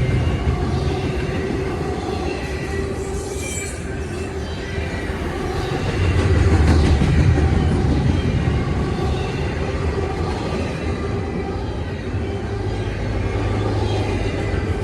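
Freight train rolling past on the rails: a steady rumble of wheels and cars, swelling louder about six to eight seconds in.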